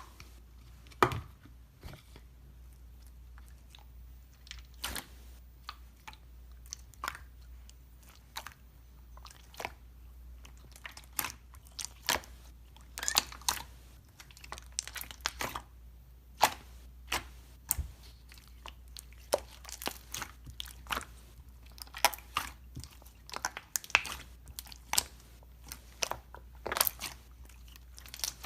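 Close-up irregular crunches and crackles, sparse at first and then coming one or two a second.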